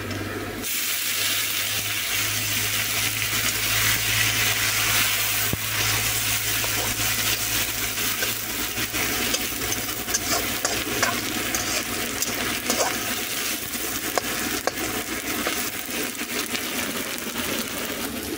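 Tomato paste sizzling in hot oil in a steel kadhai, the hiss starting suddenly about half a second in as the paste hits the fried onions and garlic-chilli paste. A steel spatula scrapes and taps the pan as it is stirred.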